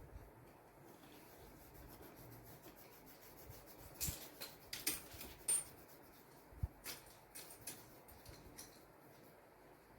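Paintbrush strokes rubbing on paper, with scattered light taps and clicks of painting tools, most of them between about four and seven seconds in.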